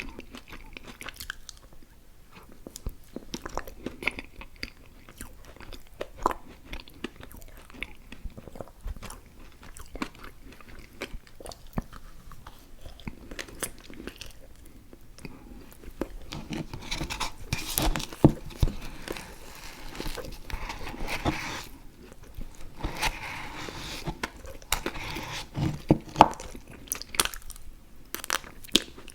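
Close-up mouth sounds of a person chewing chewy fruit candy: sticky, wet clicks and smacks, getting busier and louder about halfway through.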